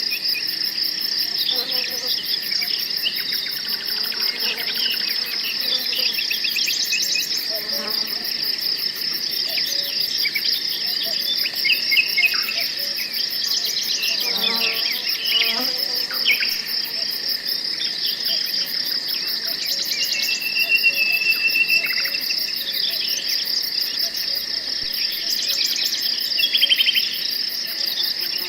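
Forest ambience: a steady, pulsing chorus of crickets and other insects, with scattered bird chirps and trills over it.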